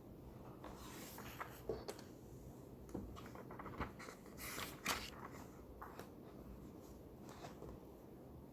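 Quiet library reading-room ambience: a steady low hum with scattered small clicks, taps and brief rustles from people at the desks, the loudest rustle about four and a half seconds in.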